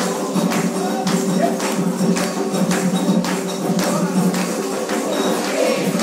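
Candomblé ceremonial percussion music played at a steady beat, about two to three strikes a second.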